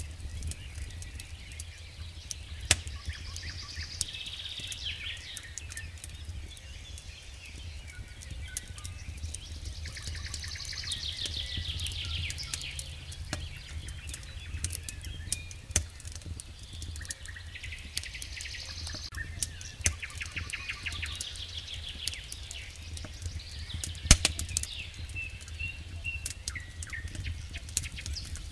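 Campfire crackling with frequent sharp pops, the loudest about 24 seconds in, over a steady low rumble. Songbirds sing in several bursts of rapid high trills and chirps.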